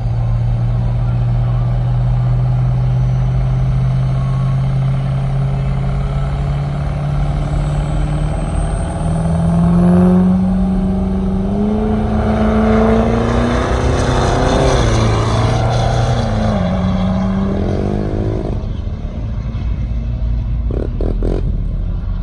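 A truck engine running at a steady idle, then revving up with a rising pitch about ten seconds in, with a rush of noise over the engine for a few seconds before it drops back down.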